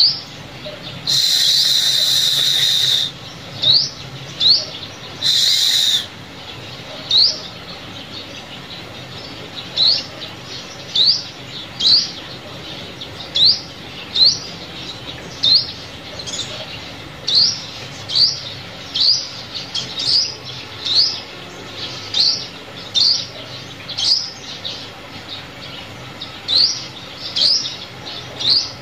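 Sunbird lure call: a string of short, high, sharply rising call notes repeated about once a second, with two longer buzzy trills near the start.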